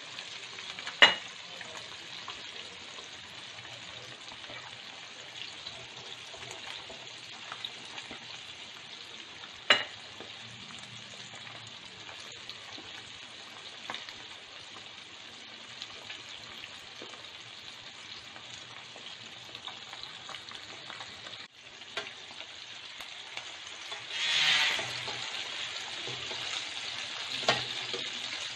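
Batter-coated chicken wings deep-frying in hot oil in a wok, a steady sizzling hiss. Two sharp knocks stand out early and about ten seconds in, with a smaller one near the end, and the sizzle swells louder for about a second roughly three-quarters of the way through.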